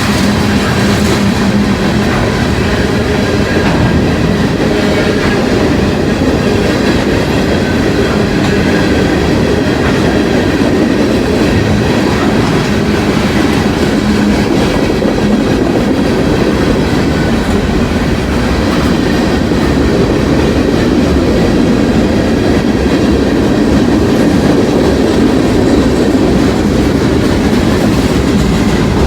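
Freight train cars of a long mixed manifest rolling past at close range: a loud, steady rumble of steel wheels on the rails that holds without a break.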